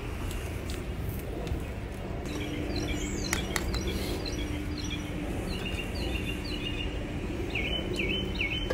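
Small birds chirping in repeated short notes, growing into a quick run of chirps near the end, over steady low outdoor background noise. A couple of faint clicks about three seconds in.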